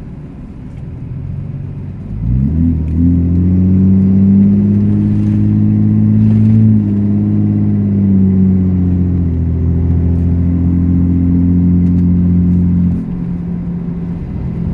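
6.7 L Cummins diesel on a straight-pipe exhaust with its Pacbrake exhaust brake engaged: about two seconds in the exhaust note jumps to a loud, deep drone. The drone holds for about ten seconds, its pitch easing down slightly as the truck slows, then drops back sharply when the brake lets off near the end.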